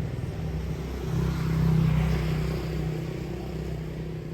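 A small engine running steadily, picking up speed and getting louder for about a second around the middle, then settling back.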